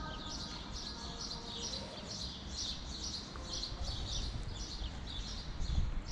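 Small birds chirping over and over, a few short high chirps a second, over a steady low rumble.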